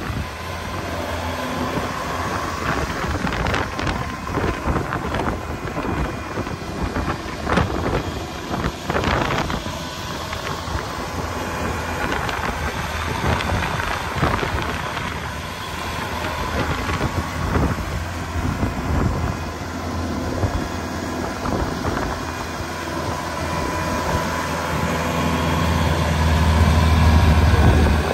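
Tractor engine running under heavy wind buffeting on the microphone, growing louder near the end.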